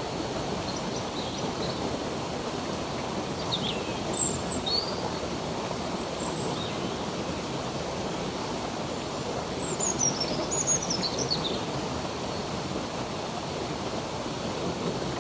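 Running water, a stream or small waterfall, makes a steady rush, with birds chirping over it in short, high, falling phrases, a busier cluster of calls about ten seconds in.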